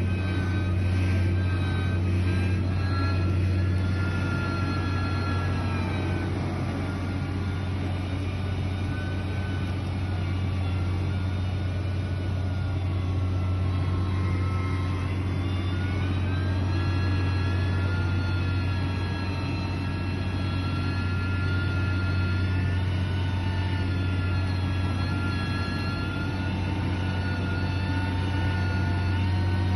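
Heavy construction machine engine running steadily with a deep hum. Over it, higher whining tones sink a little and rise again as the load or revs shift.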